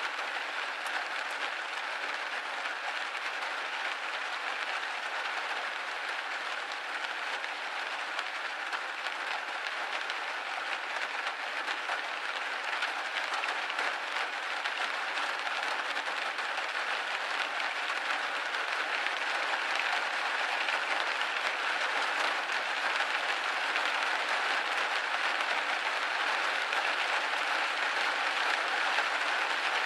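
Steady rain pattering on a window pane, a dense even hiss of many small drop hits, growing slightly louder in the second half.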